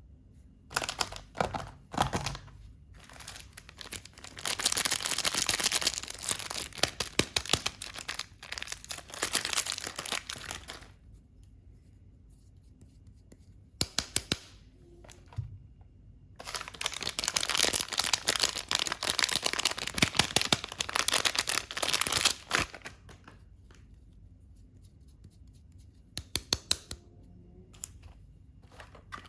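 Soap wrappers being torn open and crinkled in close-up, in several bursts of tearing and crackling with short quiet pauses between them.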